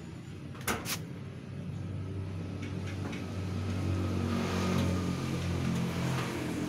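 Diamante clothes dryer running after its service: a steady low motor hum that builds slightly. Two sharp clicks come just under a second in.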